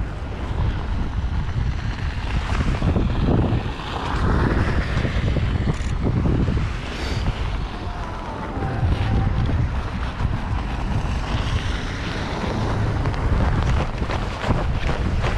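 Blizzard wind buffeting the microphone: a steady, heavy rumble with gusty hiss that never lets up.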